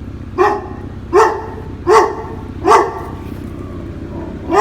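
Dog barking four times in a steady rhythm, about one bark every three-quarters of a second, then once more near the end after a short pause.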